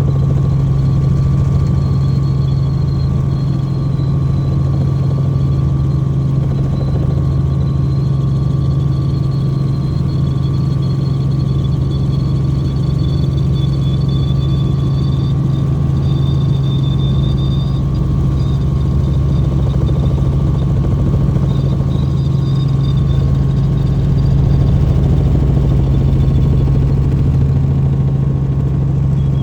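Helicopter cabin noise in flight: a loud, steady low drone from the rotor and engine, with a thin high whine above it that wavers slightly.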